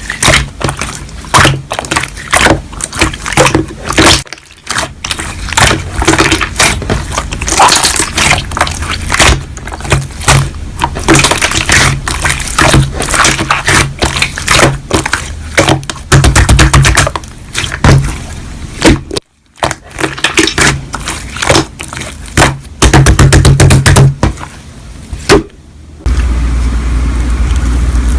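Slime being squeezed, poked and stretched by hand, making rapid sharp crackling clicks and pops. About two seconds before the end it changes to a steadier, lower squishing noise.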